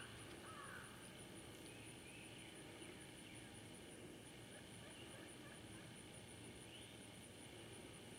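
Near silence: faint outdoor background hiss with a few faint bird chirps, the clearest around the start.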